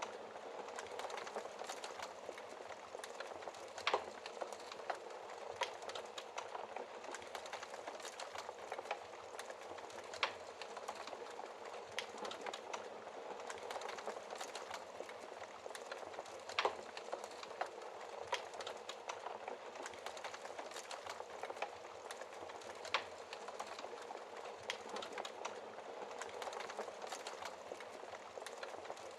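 Wood fire crackling in a fireplace: a steady bed of fine crackles with a sharp louder pop every six seconds or so.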